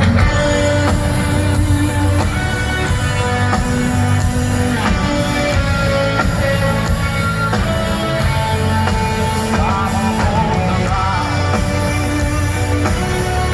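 Live rock band playing a passage of a song between sung lines, with guitar and a strong low end.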